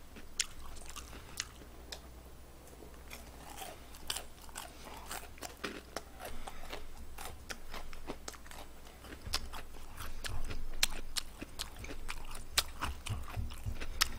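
Close-miked chewing of crispy fried chicken: many irregular crunches of the battered crust, louder in the second half.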